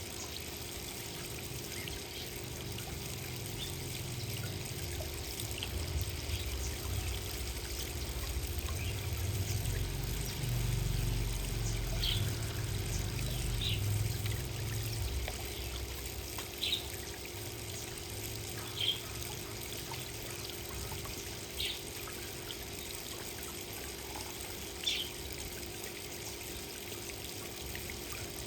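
Water trickling steadily at a garden birdbath, with short high chirps or splashes every few seconds. A low rumble swells and fades in the first half.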